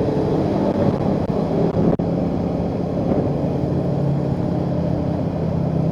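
Motorcycle engine running steadily while riding, with a brief dropout in the sound about two seconds in.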